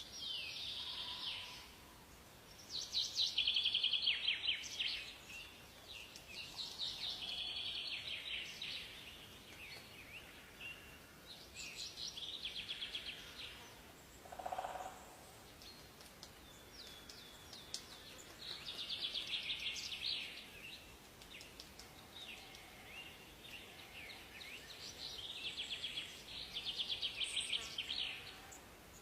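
Songbird singing in the forest: fast trilled phrases, one every few seconds, over a steady background hiss, with a short lower sound about halfway through.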